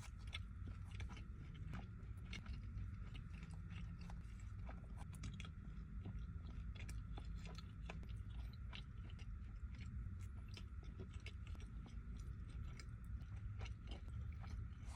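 Close-miked chewing and biting of pepperoni pizza: a steady run of small wet mouth clicks and crunches, with a faint steady high tone underneath.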